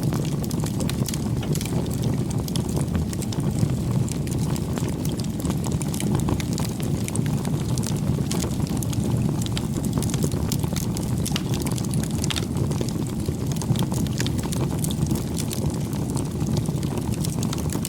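Wood bonfire burning: a steady low rumble of the flames with frequent small, sharp crackles and pops from the burning wood.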